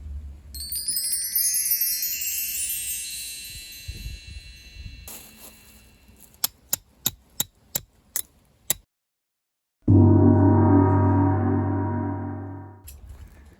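Edited sound effects: a shimmering cascade of high chime tones, then a quick run of about eight sharp ticks, then a deep gong-like hit that fades out over about three seconds.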